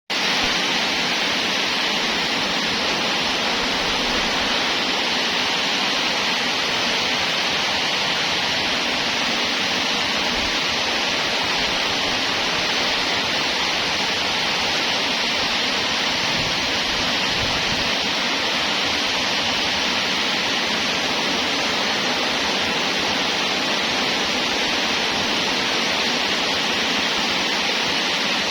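Steady, even rushing hiss that does not change or break, brightest in its upper middle range.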